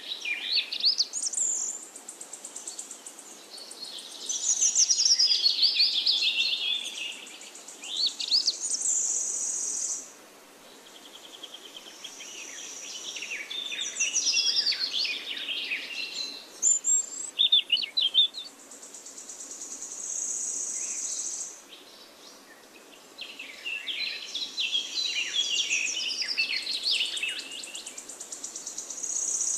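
A songbird singing: varied chirps and sweeping whistles mixed with long, high, sustained trills, in phrases broken by short pauses.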